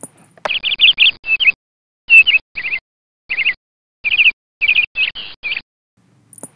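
Small songbird chirping: about ten short phrases of quick, high, rising-and-falling notes, each cutting in and out abruptly, stopping about a second before the end.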